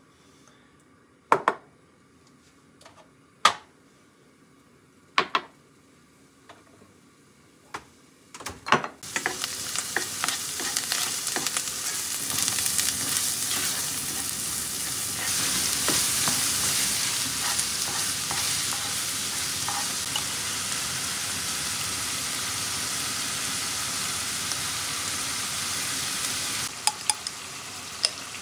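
A few sharp separate clicks and knocks of kitchen utensils, then from about nine seconds in, chopped aromatics sizzling in oil in a frying pan as a spatula stirs them. The sizzle drops suddenly to a lower level near the end, followed by a couple of clicks.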